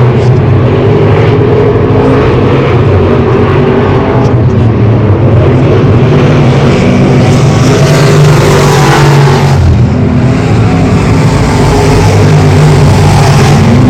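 Race car engines running loud and continuously on the track, with the sound swelling twice, about halfway through and again near the end, as cars pass close by.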